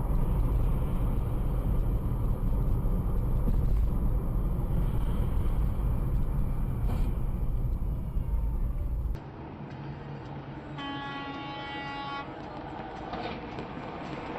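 Loud, steady low rumble of a vehicle in motion that cuts off suddenly about nine seconds in. Over quieter background noise, a horn then sounds one steady blast of about a second and a half.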